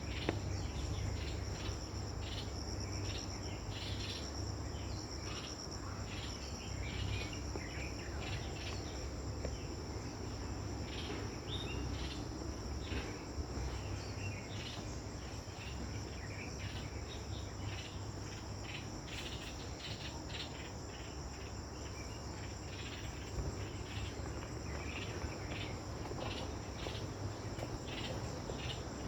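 Insects trilling in a steady, high-pitched drone, with irregular short ticks and crackles over it and a low rumble underneath.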